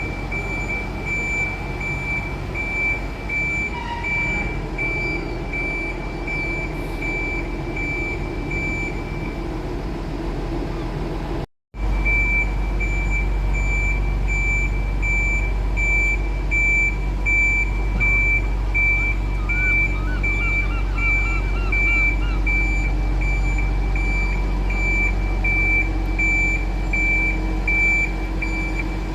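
Reversing alarm beeping at an even rate over the low hum of a vehicle moving slowly during a tram shunt in a depot.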